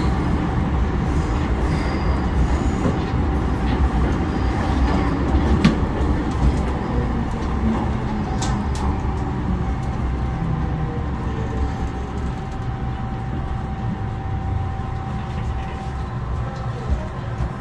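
Interior of an MTR M-Train electric multiple unit running on the line: a heavy steady rumble with a steady motor tone, gradually quieting as a faint falling motor tone shows the train slowing.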